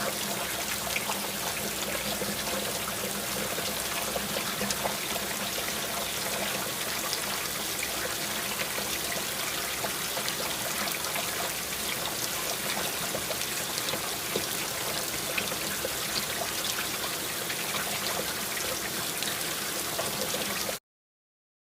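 Water sound effect: a steady trickling hiss dotted with many small drip-like ticks. It cuts off abruptly about a second before the end.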